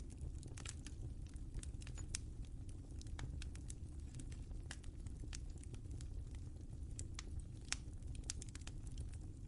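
Wood fire crackling in a fireplace: a steady low rumble of flames with frequent irregular sharp pops and snaps, one a little louder near the end.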